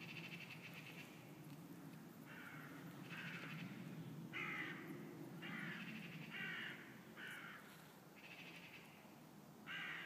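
Bird calling: a series of short repeated calls, about one a second, with a longer, higher call at the start.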